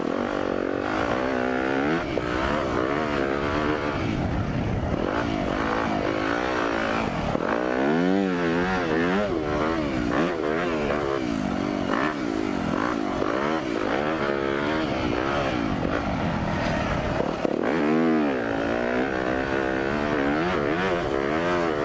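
Yamaha YZ250F dirt bike's four-stroke single-cylinder engine being ridden, its pitch rising and falling again and again as the throttle is worked.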